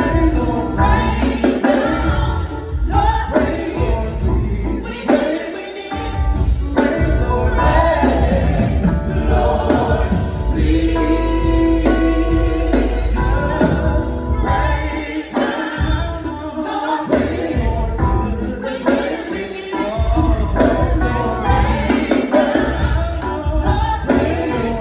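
Gospel choir singing with a band accompanying, strong bass underneath.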